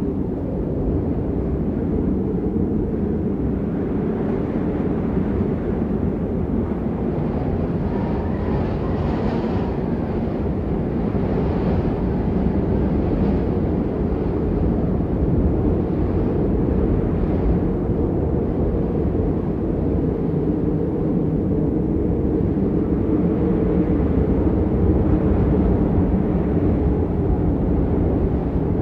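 Storm wind buffeting the microphone: a loud, steady, low rumble with no words over it, and a fainter hiss rising above it about eight to twelve seconds in.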